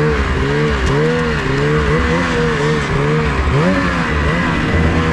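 Two-stroke 600 race snowmobile engine revving up and down over and over, about twice a second, then settling to a steady pitch near the end.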